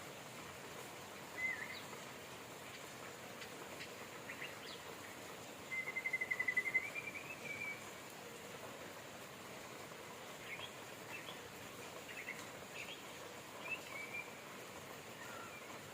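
Steady rain with birds calling over it: short chirps scattered throughout and one longer rapid trill about six seconds in, the loudest sound.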